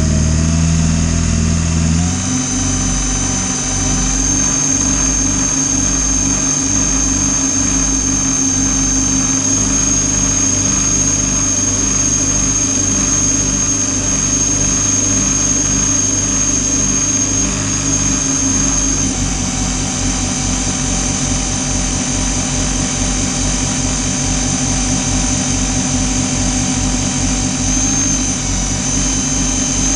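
Robbe Happy Hunter RC model tug's drive motors running steadily, with a high whine over a fast low pulsing. The pitch steps up about two and four seconds in and shifts again near the end, following throttle changes.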